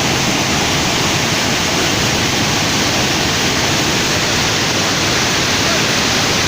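Heavy water pouring through a dam's spillway, a loud, steady rushing that does not change.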